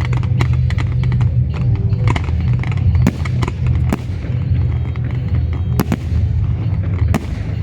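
Fireworks display: a dense run of sharp bangs and crackling reports from bursting aerial shells, several louder bangs among them, over a steady low rumble.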